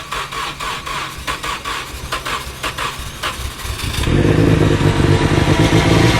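Nissan SR20DET turbocharged four-cylinder engine running unevenly just after being started, with an uneven pulsing note. About four seconds in, the sound becomes louder and fuller.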